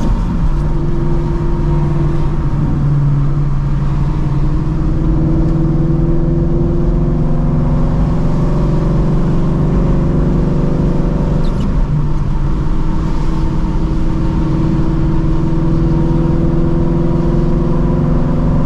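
The 5.2 L Voodoo flat-plane-crank V8 of a 2016 Shelby GT350 with long-tube headers, an X-pipe and a Borla cat-back exhaust, running steadily at a cruise with a deep exhaust drone. About twelve seconds in the pitch dips briefly, then holds steady again.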